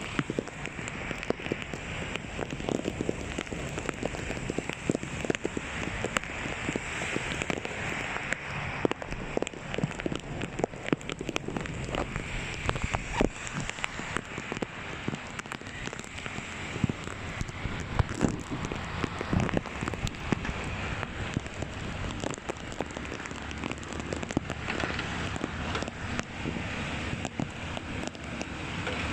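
Steady rain falling, with many sharp drop hits close by scattered through it.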